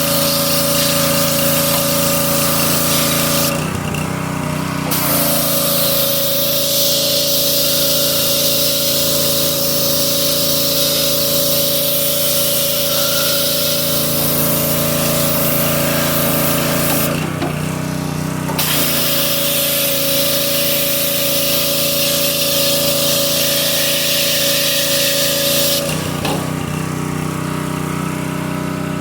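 Pressure washer with a small engine running steadily while its jet sprays with a high hiss. The spray stops briefly twice and cuts off a few seconds before the end, while the engine keeps running.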